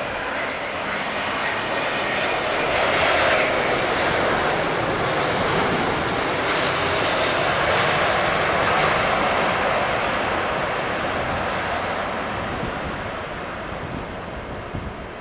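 Jet airliner passing low on landing approach: its engine noise swells over the first few seconds, stays loud for several seconds, then slowly fades away.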